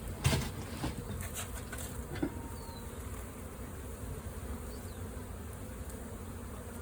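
Large honeybee swarm buzzing steadily, with a few sharp knocks, the loudest about a quarter of a second in.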